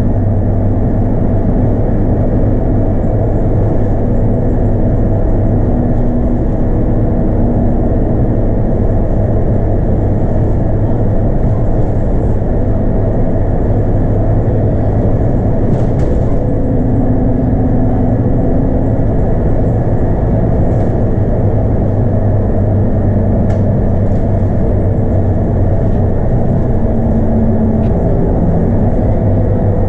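Scania K230UB bus with a five-cylinder Scania DC9 diesel engine and ZF Ecomat automatic gearbox, driving along steadily, heard from on board: a steady low engine drone mixed with road noise. There are a few faint ticks or rattles.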